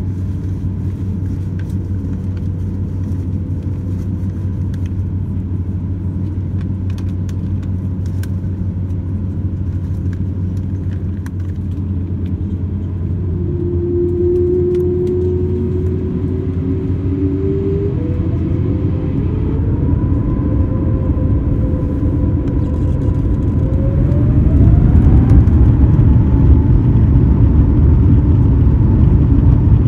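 Airbus A350-900 with Rolls-Royce Trent XWB engines, heard from inside the cabin during a long takeoff roll: a steady low rumble. About halfway through, whining engine tones rise in pitch, and in the last few seconds the noise grows louder.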